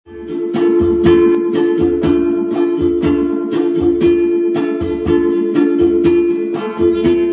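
Ukulele strummed in a steady, even rhythm of chords, starting abruptly right at the beginning.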